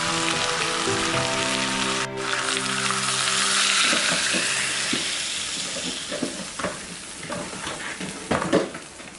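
Chicken sizzling in a hot clay pot as water is poured in: the hiss swells, then dies down to scattered spattering pops.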